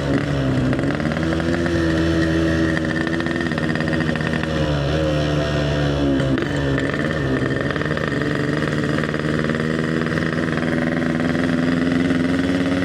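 Yamaha RX King's single-cylinder two-stroke engine running under way through an EnzyProject exhaust, with a steady, clean note. Its pitch dips and climbs back a few times, most deeply about halfway through.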